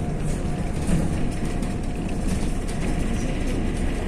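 Interior noise of a MAZ-103 city bus on the move: a steady low engine and road rumble with light rattles and knocks from the body.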